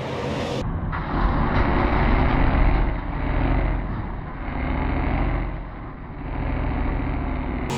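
Motor vehicle running, a heavy low rumble of engine and road noise that swells and fades every second or two.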